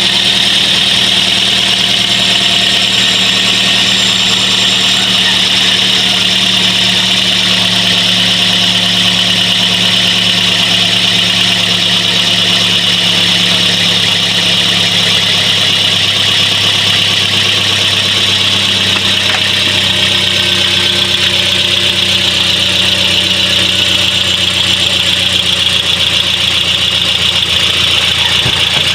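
The 2016 Toyota Vios's four-cylinder petrol engine idles steadily, with a steady high whine over it. It is running smoothly on its new fuel pump, fuel filter and fuel pressure regulator, fitted to cure hard starting.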